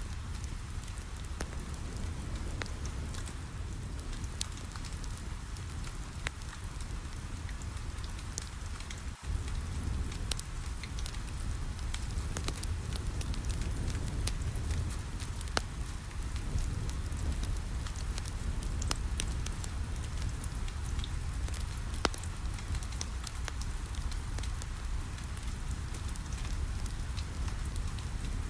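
Steady rain falling on a window, mixed with a crackling wood fire: a continuous rush with a low rumble and scattered sharp crackles and pops throughout. The sound briefly drops out about nine seconds in.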